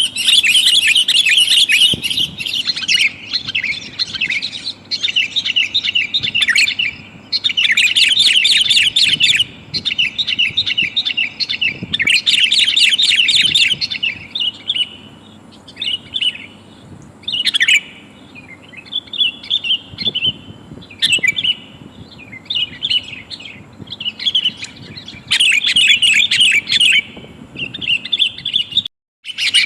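Sooty-headed bulbul calling in repeated rapid, chattering bursts, each lasting a second or two, with short pauses between them; the sound briefly cuts out near the end. The recording is sold as a female calling a male, for use as a lure for wild bulbuls.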